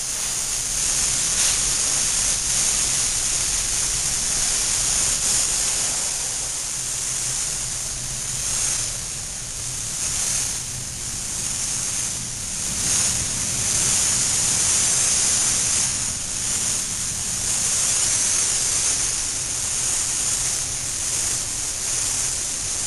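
Automotive paint spray gun hissing steadily as it sprays base coat, the hiss rising and falling slightly in loudness.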